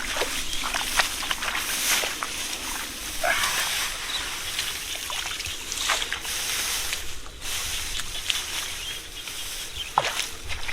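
Shallow water sloshing and trickling, with scattered sharp splashes, the strongest about two, six and ten seconds in.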